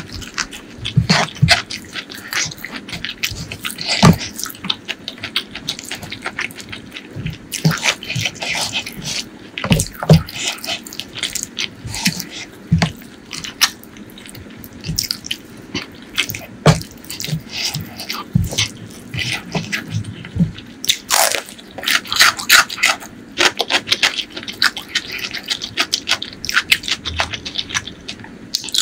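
Close-miked eating sounds: wet chewing and lip smacking of fish curry and rice eaten by hand, as a dense run of sharp clicks and smacks with a quieter stretch about halfway through.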